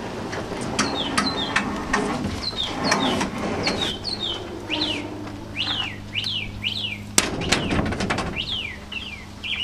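Small birds chirping in repeated short, falling whistled notes over a low steady hum, with a single sharp knock about seven seconds in.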